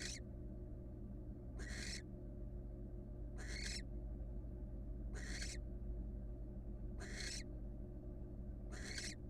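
A barn owl gives a harsh hissing call six times, each short and evenly spaced at about one every two seconds. A steady low electrical hum runs underneath.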